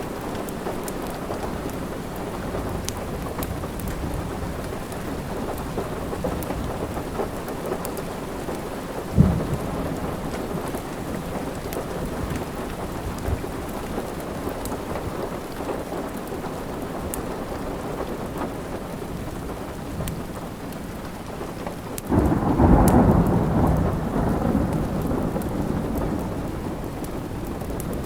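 Steady rain with faint fire crackles, a single sharp low thump about a third of the way in, and a loud roll of thunder breaking about three-quarters of the way through and slowly fading.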